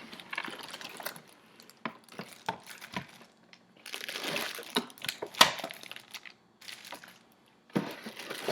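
Cardboard box and packaging being handled during unboxing: irregular rustling and crinkling with scattered knocks and clicks, the sharpest about five and a half seconds in.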